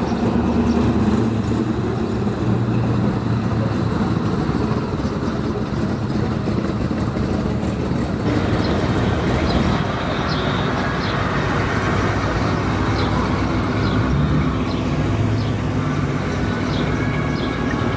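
Car engine running steadily under general outdoor noise. Short high chirps repeat through the second half.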